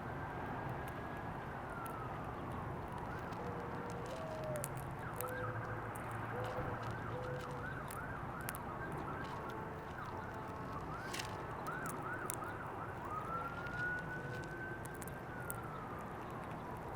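Emergency-vehicle siren: a slow wail that rises, holds and falls, switching in the middle to a fast yelp of quick up-and-down sweeps, then back to a slow wail.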